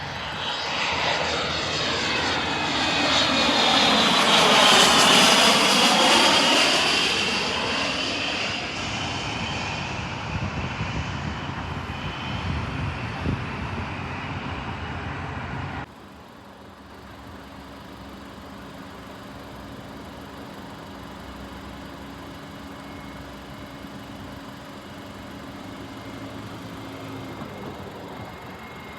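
An airplane passes low overhead: its engine noise swells to a peak about five seconds in, with a whine sweeping down in pitch as it goes by, then fades. About sixteen seconds in the sound cuts off abruptly to a quieter, steady aircraft engine hum with a low steady tone.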